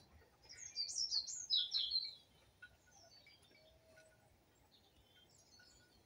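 A bird singing a quick run of high, falling chirps in the first two seconds, followed by a few faint chirps.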